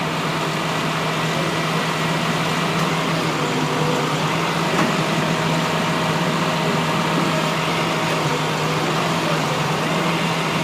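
Tow truck's engine running steadily with a constant low hum.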